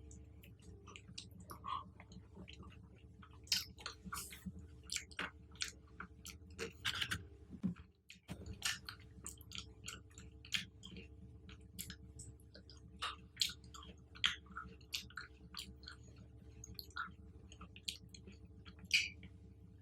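Close-miked chewing of fruit: irregular wet clicks and smacks of biting and mastication. There is a brief break in the sound about eight seconds in.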